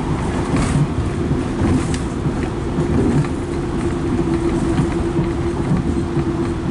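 Passenger train running at speed, heard from inside the carriage: a steady rumble of wheels on the track with a constant hum.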